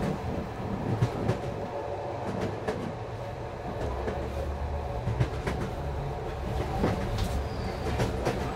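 Passenger train running: a steady low rumble with scattered sharp clicks from the wheels and carriage.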